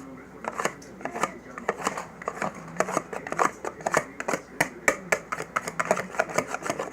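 A utensil clattering against a bowl in quick, irregular strokes as pancake batter is mixed.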